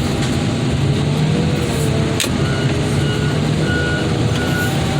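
A heavy machine's engine running steadily under load while its wheels spin and slip in mud. From about halfway in, a reversing alarm beeps about once a second.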